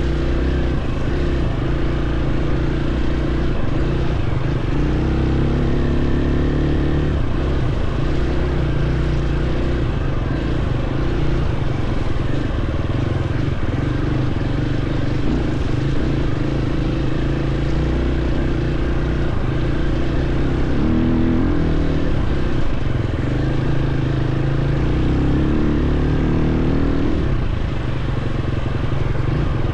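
Dirt bike engine running steadily under load, its pitch shifting as the throttle and gears change, with a couple of quick rises in revs in the last third.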